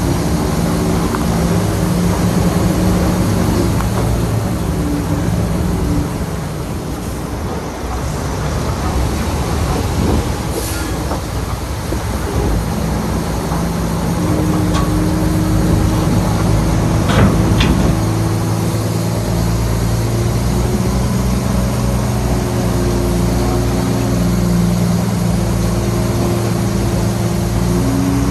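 Shantui bulldozer's diesel engine running steadily under work. It eases off for a few seconds about six seconds in, then picks up again, louder. A couple of sharp knocks come about ten and seventeen seconds in.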